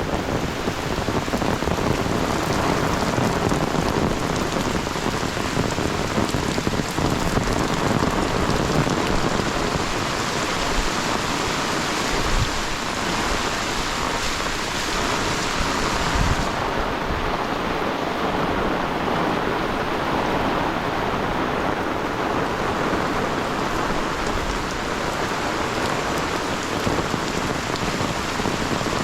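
Heavy monsoon rain falling steadily and splattering on surfaces. The hiss loses some of its brightness a little past halfway.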